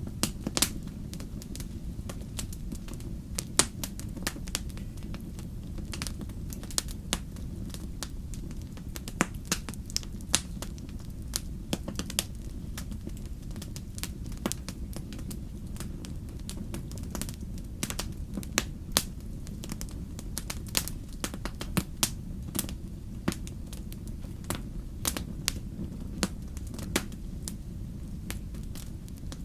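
Wood bonfire crackling: irregular sharp pops and snaps, several a second at random, over a steady low rumble of the burning fire.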